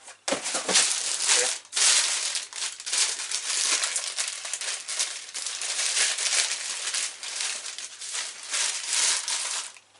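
Crinkly packaging being torn open and handled, a continuous dense rustling and crackling with many small clicks.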